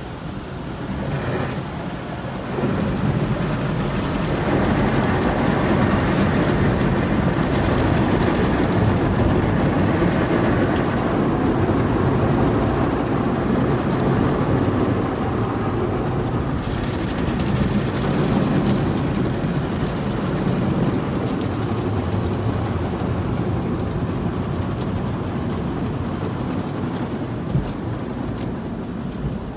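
Automatic car wash heard from inside the car: water spray and washing equipment beating on the car's body and windows, a steady rushing like heavy rain that grows louder about two to three seconds in.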